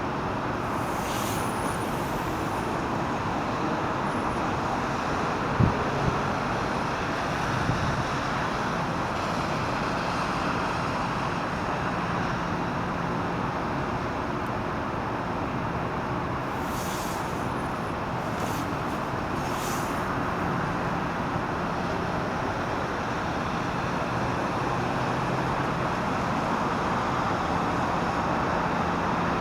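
Steady outdoor roar of vehicle noise, even in level throughout, with a single sharp knock about six seconds in.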